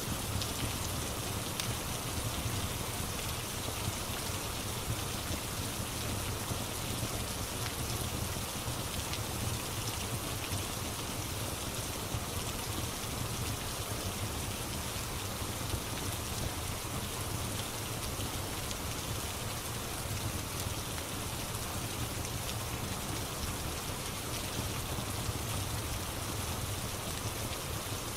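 Steady rain falling, with a few faint sharp pops from a crackling wood fire.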